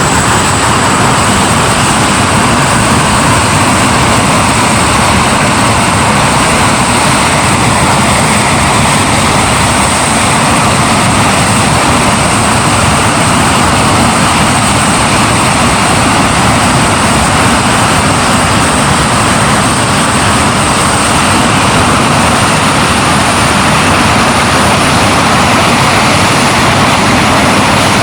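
Hawker Hunter's jet engine running steadily during a ground run: a loud, even rush with a thin high whine that creeps slightly up in pitch.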